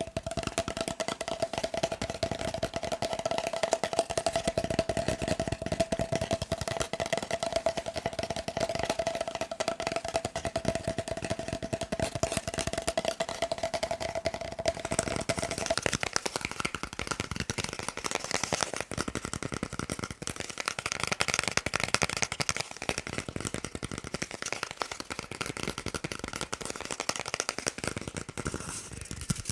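Fast, continuous tapping on a paper roll, a dense stream of quick taps. Through the first half the taps carry a steady ringing pitch, which stops about halfway through and gives way to a higher ring.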